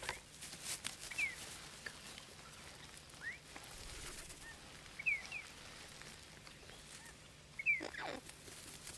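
Birds giving short, high, downward-sliding chirps every second or two, the loudest near the end, with a few faint clicks near the start.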